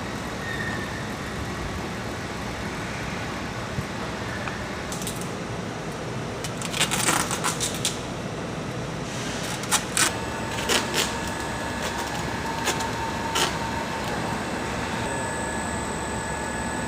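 Metal parts clinking and tapping in short clusters, first about a third of the way in and again past the middle, over a steady mechanical hum of plant machinery. A steady whine comes in about ten seconds in.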